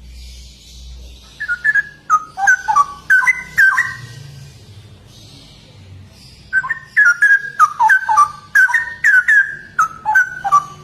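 Straw-headed bulbul singing loud, bubbling whistled phrases in two bursts: a short one starting about a second and a half in and a longer run from about six and a half seconds on.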